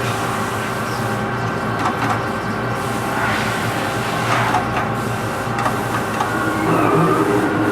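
Lathe running while turning a large bridge-bearing part: a steady machine hum with several held tones and cutting noise that swells a few times in the middle. A new steady lower tone comes in near the end.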